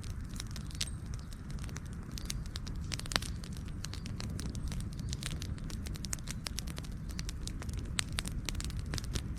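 Wood fire crackling, with irregular sharp pops over a steady low rumble of flame.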